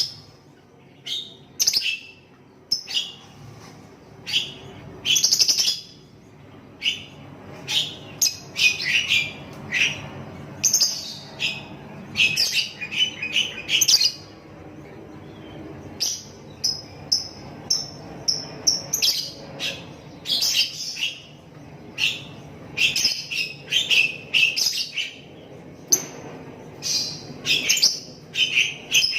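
Lovebird chirping: runs of short, sharp high chirps in quick succession, with a pause of about two seconds midway.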